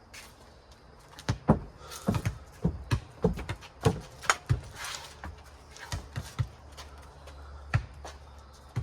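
A ball being kicked and bouncing in a game of four square: a string of irregular thumps and knocks, about a dozen, over a faint steady low hum.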